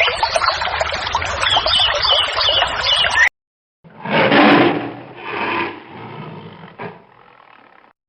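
Dense birdsong with chirps that cuts off abruptly about three seconds in. After a short silence a tiger roars twice, about a second apart, the second roar weaker, and the sound fades away.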